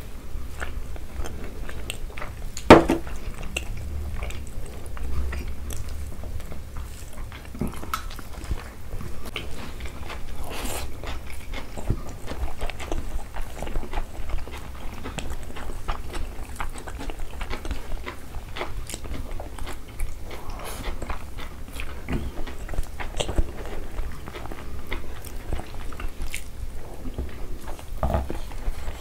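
Close-miked mukbang eating sounds: chewing and mouth sounds of people eating rice with chicken liver and egg curry by hand, with many small clicks throughout. One sharp knock about three seconds in is the loudest sound.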